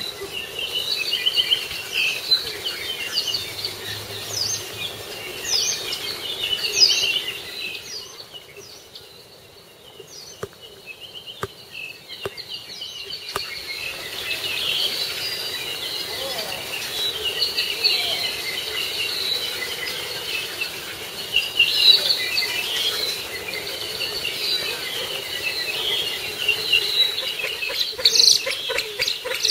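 Many short bird chirps and calls over a steady high insect drone. The birdsong thins out for a few seconds near the middle, leaving a few clicks, then picks up again.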